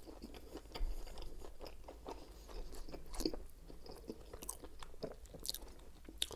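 Close-miked chewing of a mouthful of toasted Subway sub sandwich: irregular small crunches and wet mouth clicks, a few of them louder.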